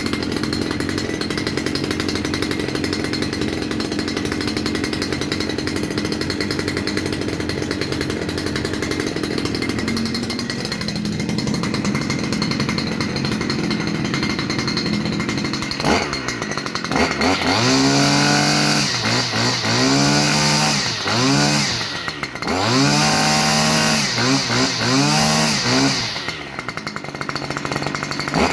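Stihl FS 291 brushcutter's two-stroke engine idling steadily, then revved up and down several times from about halfway through before dropping back to idle near the end.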